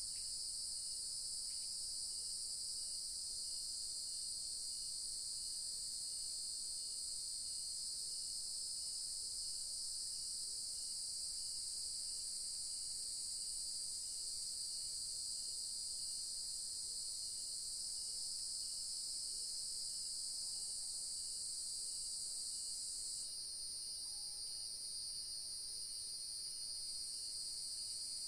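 Dense chorus of crickets and other night insects: a continuous high-pitched trill that holds steady, with a fainter insect chirping at an even pace beneath it.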